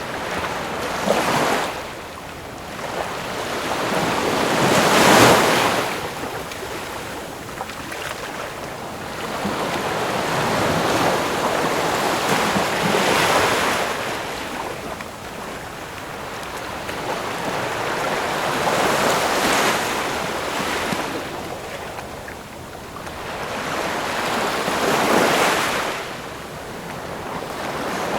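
Ocean waves breaking on a shore, each swell rising and washing back, about every six seconds.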